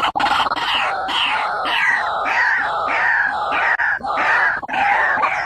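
White-breasted waterhen calling: a rapid series of harsh, repeated notes, about three a second.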